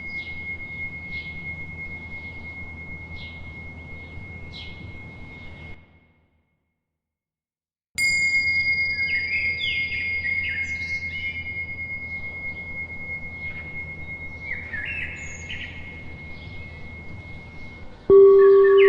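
Birds chirping over the long, steady ring of a bell, which fades and drops to complete silence for about two seconds. A high bell is then struck, its ring holding steady under a flurry of chirps, and just before the end a louder, lower-pitched bell tone begins.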